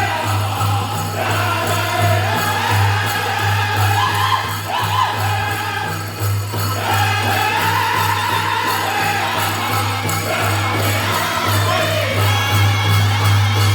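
Powwow drum group singing in high, sliding voices over a steady beat on a shared big drum, with jingling bells from the dancers' regalia.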